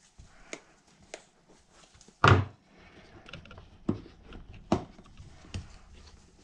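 Irregular knocks and thunks as a soft rubber paddle tire and its wheel are handled and pressed on a tabletop while the tire bead is forced over the rim. The loudest thunk comes about two seconds in.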